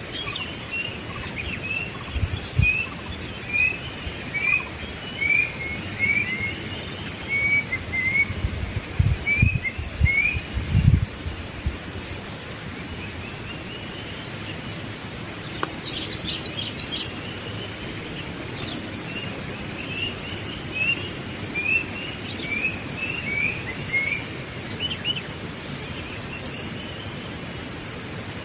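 Wild birds calling, with a run of short repeated chirps about two a second, pausing in the middle and then resuming, over a steady high insect drone. A few low thumps come in the first half.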